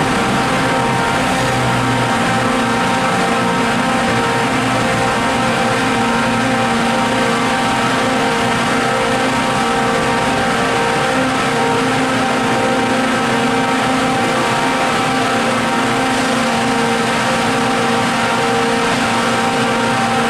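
A train running steadily: a loud, even drone made of several held tones that hardly change in pitch.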